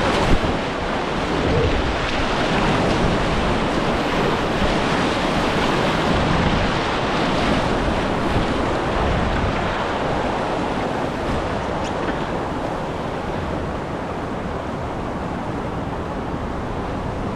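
Steady rush of moving river water around a kayak, with some wind noise on the microphone.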